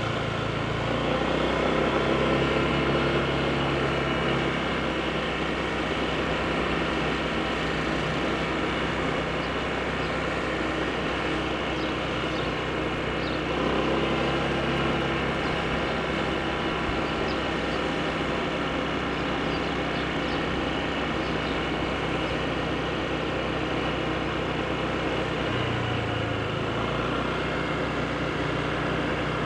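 Honda PCX scooter's single-cylinder engine running steadily under way, mixed with wind and road noise. The engine note shifts in pitch about a second in, again near the middle, and near the end.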